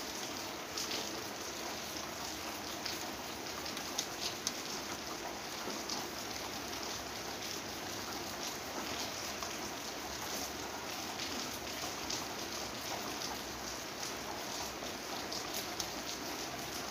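Steady rain falling, an even hiss with many scattered individual drops ticking.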